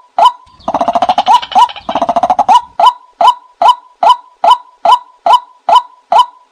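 Bird call played as a hunting decoy: a short note near 1 kHz with a quick downward hook, repeated very evenly about two and a half times a second. From about half a second to two and a half seconds in, a rapid rattling chatter sounds over the calls.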